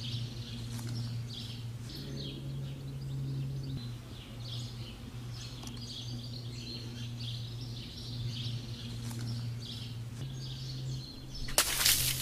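Small birds chirping and calling intermittently over a steady low hum. A brief loud rush of noise comes near the end.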